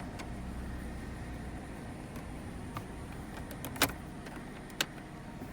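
A few sharp clicks inside a car, the loudest about four seconds in and another a second later, over a steady low hum.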